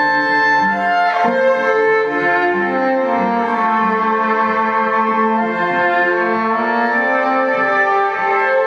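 Violin played live through a loop pedal: several bowed notes are held and layered over one another into slowly shifting chords, with no singing.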